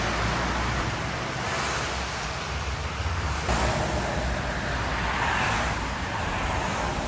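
Road traffic on a rain-wet highway: vehicles passing, their tyre noise swelling and fading over a few seconds, over a low rumble.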